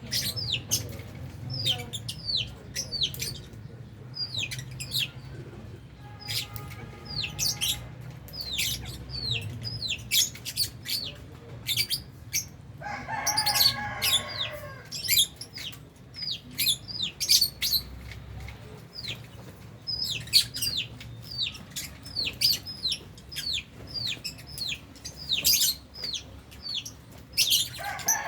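A flock of lovebirds chirping nonstop in quick, high, sharp chirps, with a lower, harsher call about halfway through.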